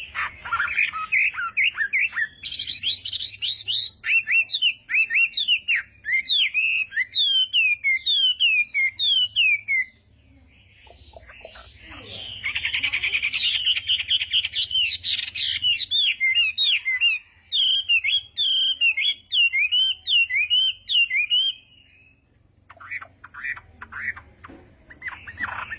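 Chinese hwamei (melodious laughingthrush) singing loudly: long phrases of rapid, repeated whistled notes that sweep up and down. Two long bouts are separated by a short pause about ten seconds in, and a new bout starts near the end.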